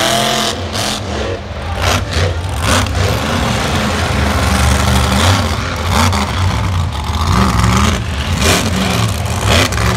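Monster truck engine revving hard, its pitch rising and falling again and again as the driver works the throttle.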